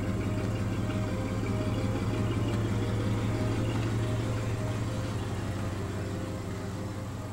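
Car engine idling steadily just after starting, a low even hum that slowly fades near the end.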